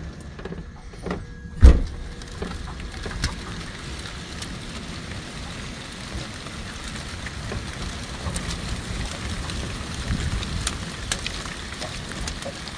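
Heavy rain falling steadily during a thunderstorm, with many small sharp ticks of drops striking nearby surfaces. A single loud, sharp thump comes about a second and a half in.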